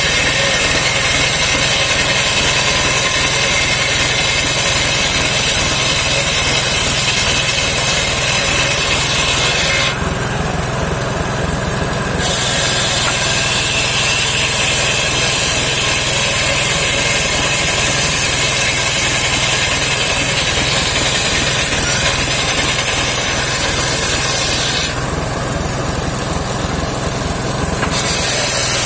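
Homemade circular sawmill running on its engine, the blade sawing through rain tree (saman) wood with a steady high hiss over the engine. The high sawing noise stops twice, about ten seconds in and again about twenty-five seconds in, for two to three seconds each, while the engine keeps running.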